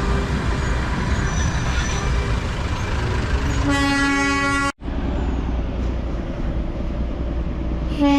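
Darjeeling Himalayan Railway train sounding its horn: one blast of about a second that cuts off abruptly, and a second blast starting at the very end, over a steady low rumble.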